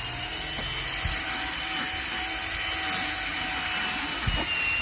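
Vacuum cleaner running steadily during interior car detailing: a constant rushing hiss with a high, steady motor whine.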